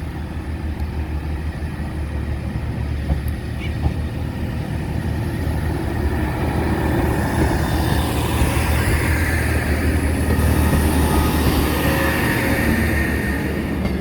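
A train running over a level crossing: a steady low rumble that builds over the first ten seconds or so, with high-pitched wheel squeal coming in over the second half.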